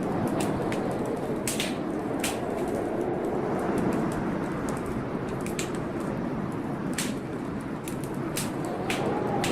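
Steady gusting blizzard wind, with a wood fire crackling in sharp, irregular pops over it.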